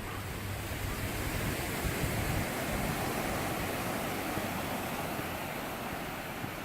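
Sea waves surging onto a beach: a steady surf hiss that swells a couple of seconds in and then eases, with a low wind rumble on the microphone that dies away after about two seconds.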